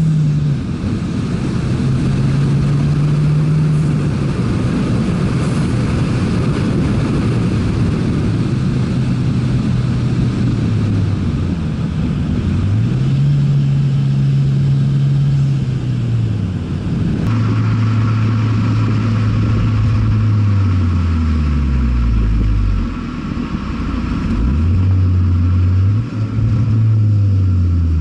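Ford Fiesta ST engine and exhaust while driving. The engine note climbs and falls repeatedly as the car accelerates and changes gear, with several quick drops in pitch near the end.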